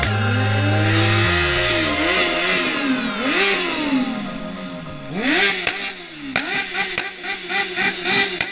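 Motorcycle engine being revved, its pitch rising and falling; from about halfway through come quick repeated throttle blips, about two a second. Background music with a heavy bass cuts out about a second in.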